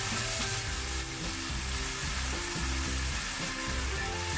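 Onions, tomatoes and spices sizzling steadily in hot oil in a nonstick frying pan as they are stirred with a silicone spatula, the masala being cooked down until the tomatoes soften.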